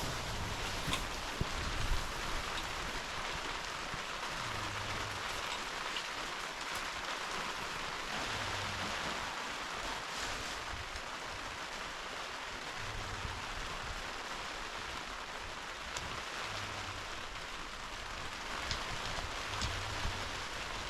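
Heavy rain falling steadily, with scattered single drops ticking louder.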